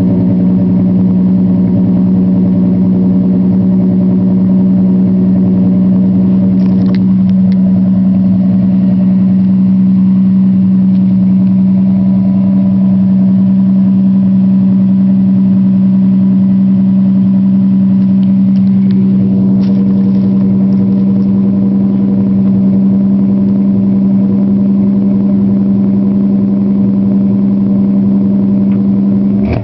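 Exhaust of a 1976 Ford F-100's 300 cubic-inch straight-six, running through a 40 series Flowmaster muffler and 3.5 inch tip, idling steadily while still cold from a start after two weeks standing.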